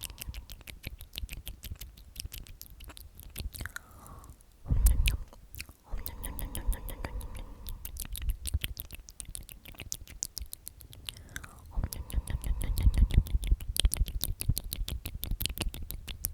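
Whispered repetitions of "omnomnom" close to the microphone, with rapid wet mouth clicks and smacking sounds like chewing. A louder low thump comes about five seconds in.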